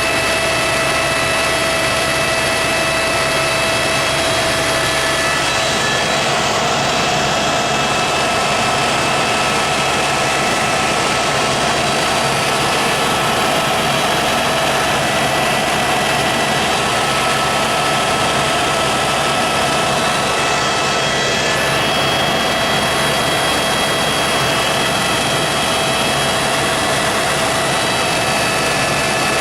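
Helicopter in flight, heard from on board: a steady, unbroken rush of rotor and engine noise with a constant high whine over it.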